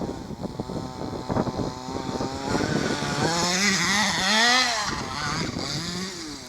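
Small two-stroke petrol engine of a 4WD RC car with a banana tuned exhaust, revving up and down repeatedly as it drives, loudest a little past the middle.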